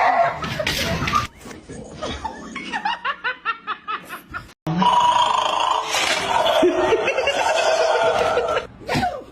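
People laughing: a run of short chuckles, then, after an abrupt cut, a longer stretch of loud laughter.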